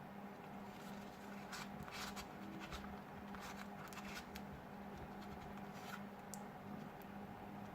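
Faint scraping and small clicks of hand tools working on a smartphone during disassembly, over a steady low hum.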